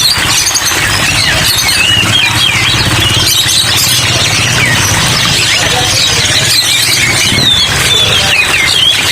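Many caged songbirds chirping and twittering at once over a steady hiss of rain, with a low steady hum underneath.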